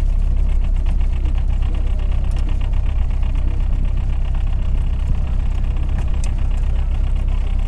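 A tour boat's engine running steadily, a loud, even, low hum.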